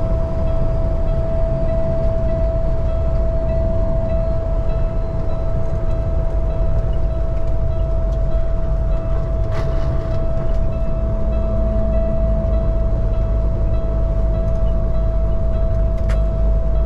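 Semi truck running at highway speed: a steady low engine and road drone with a constant high whine on top. Two short clicks come near the middle and near the end.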